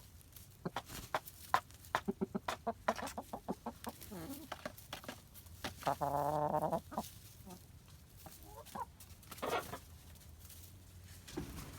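Flock of chickens clucking while feeding on live crickets, with many short, sharp clucks and one longer drawn-out call about six seconds in.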